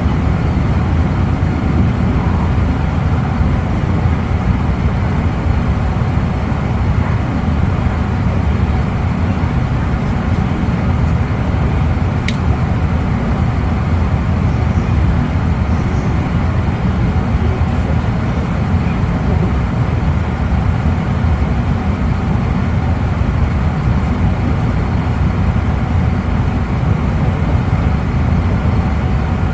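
Steady low running rumble of a JR East E259 series train, heard inside the passenger cabin of its motor car: wheels on rails and the running gear at speed. A single sharp click sounds about twelve seconds in.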